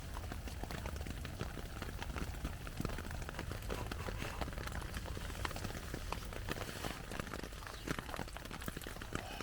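Small pot of tsumire hot pot simmering, bubbling and ticking irregularly, with rain pattering on the tarp overhead.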